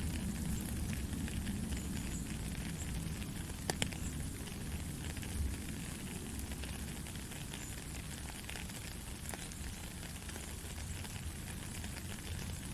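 Steady gentle rain with a fine crackle of drops and a low rumble underneath, and a couple of louder drips or clicks about four and five and a half seconds in.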